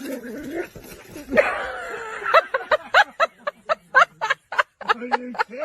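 A person laughing, starting about a second and a half in with a falling cry and going into a rapid run of short bursts, about four a second.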